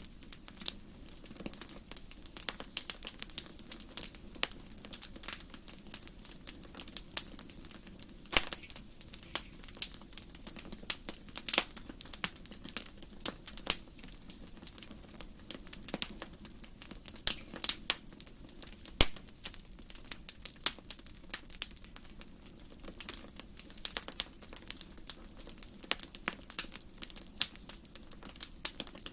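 Wood fire crackling in a fireplace: irregular sharp pops and snaps, several a second and some much louder than others, over a steady low background noise.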